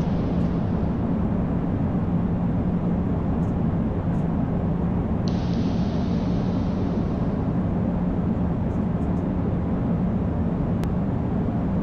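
Steady flight-deck noise of an Airbus A220-300 on final approach with the landing gear down and flaps at 3: airflow and a low, even drone. About five seconds in, a higher hiss starts suddenly and fades away over a couple of seconds.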